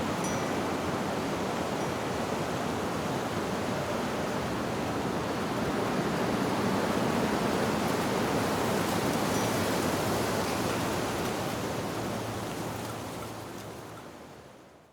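Steady rush of wind through leaves, fading out over the last few seconds.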